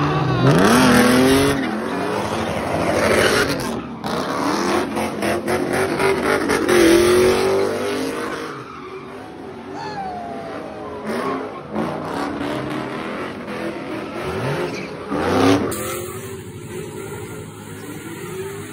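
Car engines revving hard, their pitch rising and falling again and again, with tyres spinning and squealing as cars do burnouts.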